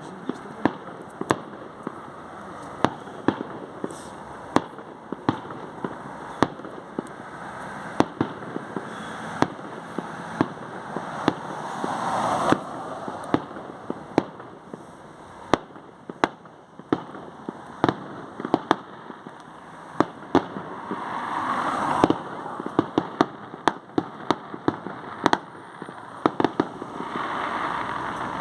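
Fireworks display: a continuous barrage of sharp bangs and pops, several a second, with three swells of crackling hiss between them.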